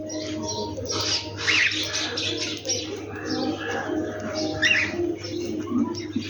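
Dawn chorus: many birds singing and chirping over one another, sharp high calls crowding together, with lower held notes and a steady low hum beneath.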